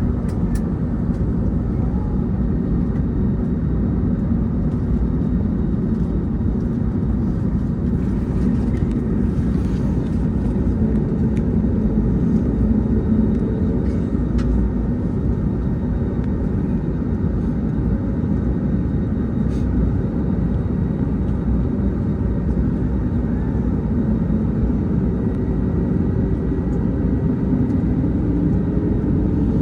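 Airbus A321neo's Pratt & Whitney geared turbofan engines running, a steady low rumble with faint steady tones that neither rises nor falls.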